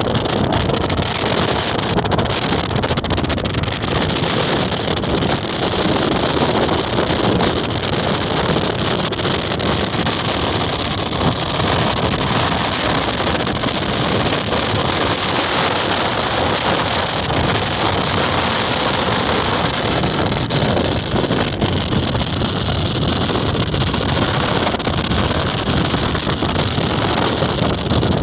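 High wind blowing hard across the microphone: a loud, steady rush of noise with a low rumble.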